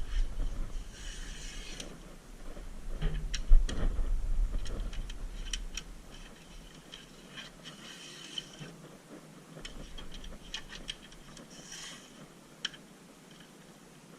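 Work noises: scattered sharp clicks and light taps, with a few short hisses and a low rumble in the first few seconds.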